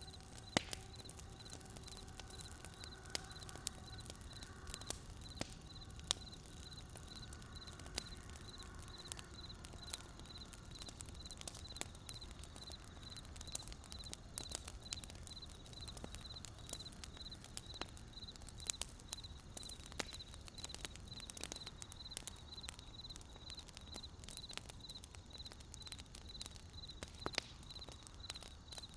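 Wood fire crackling, with irregular sharp pops and snaps over a low hiss. A faint high-pitched chirp repeats about twice a second behind it.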